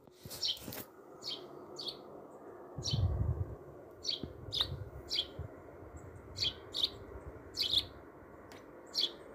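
Small bird chirping repeatedly in short, high chirps, about one or two a second. A brief scratchy noise near the start and a low rumble about three seconds in.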